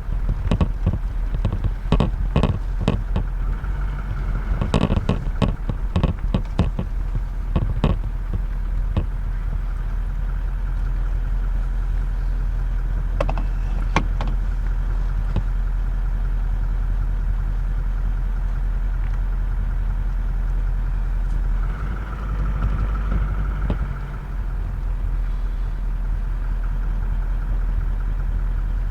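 Vehicle engine idling steadily, with a run of sharp clicks and knocks over the first eight seconds or so.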